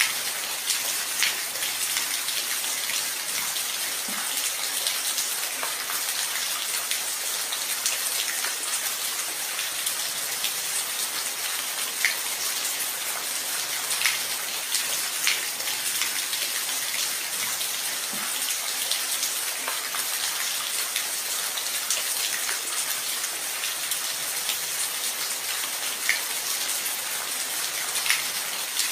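Steady rain falling, a constant hiss with scattered individual drops striking a surface close by.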